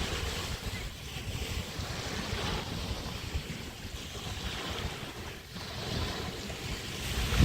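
Bay waves washing onto the beach, with wind buffeting the microphone as a low rumble. The wash dips about five seconds in and swells up again near the end.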